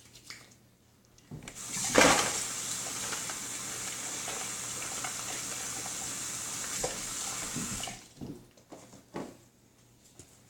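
Water running steadily from a tap for about six seconds, then stopping.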